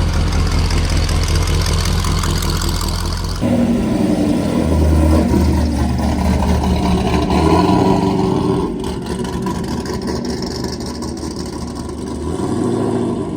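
Car engines running: first a steady idle with a deep note, then, after an abrupt change a little over three seconds in, another engine running with small rises and falls in pitch.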